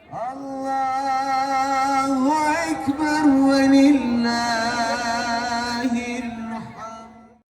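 Outro music: a single voice singing long, wavering notes in a Middle Eastern chant style, rising in pitch about halfway through and settling back down, then cutting off just before the end.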